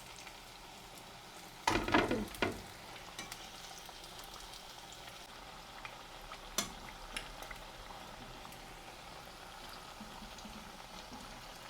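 Battered potato chops deep-frying in hot oil in a karahi, a steady sizzle. A louder burst of noise comes about two seconds in, and a few sharp clicks follow later.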